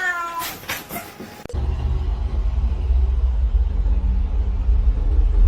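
A cat meows once at the start, the call falling in pitch, followed by a few clicks. After a sudden change about a second and a half in, a steady low rumble takes over.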